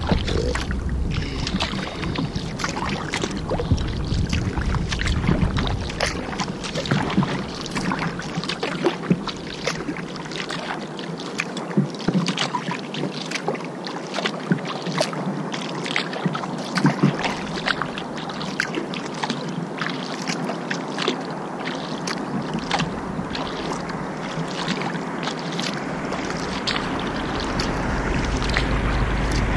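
Kayak paddling: a steady run of small splashes and drips as the paddle blades dip and lift from the water. A low rumble sits under it at the start and builds again near the end.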